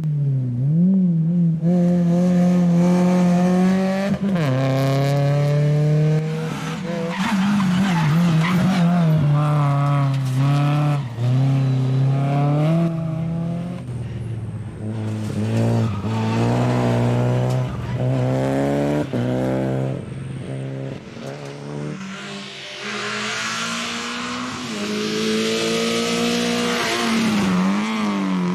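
Rally cars driven hard, engines revving high and dropping repeatedly through gear changes. Near the end, a loud hissing noise of tyres on the road runs alongside the engine.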